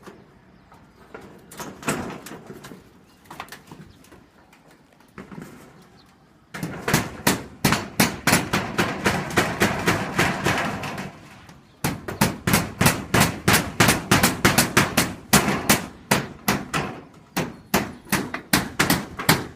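Hammering: after a few scattered knocks, a fast, even run of hammer blows at about three a second starts about six seconds in, stops briefly near twelve seconds, then carries on.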